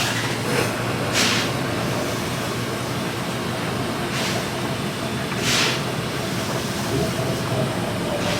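Twin Cummins QSM11 inline six-cylinder marine diesel engines running steadily in the engine room, a dense mechanical rumble. Short hisses cut through it about a second in and again at about five and a half seconds.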